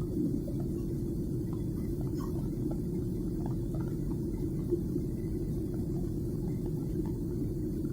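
Airliner cabin noise: a steady low rumble of the engines and airflow, unchanging throughout.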